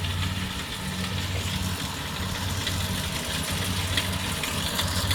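Diesel engine of a rice-field machine running steadily as it drives through soft, boggy ground at the field edge.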